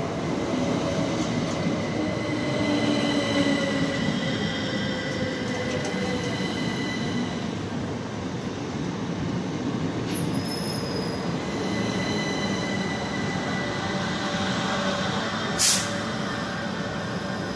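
Southern Class 377 Electrostar electric train pulling in alongside the platform and slowing to a stop, with steady wheel and running noise, a high brake squeal and a slowly falling motor whine. A short loud hiss of air comes near the end, as the train stands.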